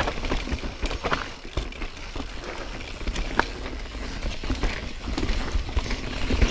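Yeti SB4.5c mountain bike rolling downhill over a rough dirt trail of roots and rocks: tyre noise with frequent irregular clicks and knocks of the bike rattling over the bumps, over a steady low rumble.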